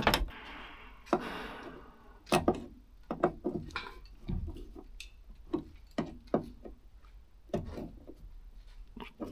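Scattered light knocks and clicks of hand work on interior trim parts and screws in a truck cab, with a soft rustle in the first two seconds.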